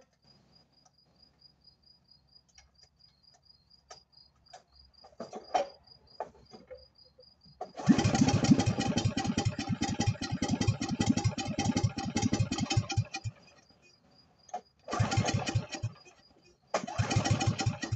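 A 1967 Jacobsen Chief garden tractor's engine catches about eight seconds in and runs loud and rapid for about five seconds, then stops. Near the end it fires in two short bursts. Crickets chirp faintly in the quiet stretches.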